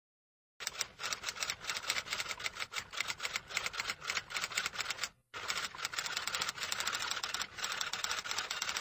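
Rapid typing: a fast, uneven run of key clicks, several a second, starting about half a second in and pausing briefly about five seconds in.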